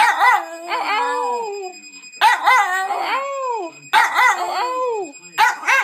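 Schipperke dog howling in a string of drawn-out howls, each rising and then sliding down in pitch, with short breaks between them. It is howling in reaction to an alarm clock going off.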